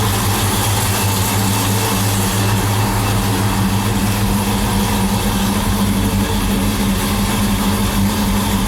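Oldsmobile 455 V8 idling steadily at about 850 rpm, with no revving, through polished stainless exhaust with new mufflers.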